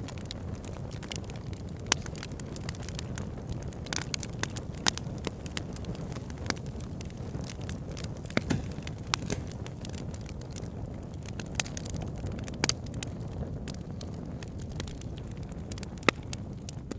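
Wood fire burning in a fireplace, crackling with sharp irregular pops over a steady low rush of flame.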